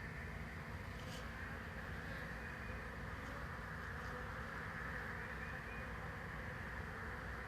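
A swarm of honeybees buzzing steadily, the continuous hum of many bees together.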